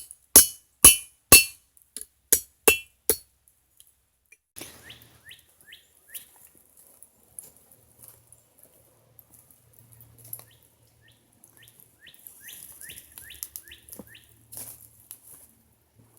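Hand hammer striking hot steel on a rusty anvil: about seven quick ringing blows in the first three seconds. After that, quieter short chirps come in runs, with a couple more sharp clinks near the end.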